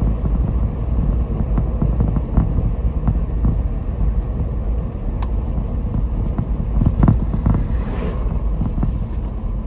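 Steady low rumble of a car driving along a back road, heard from inside the cabin, with a few light knocks.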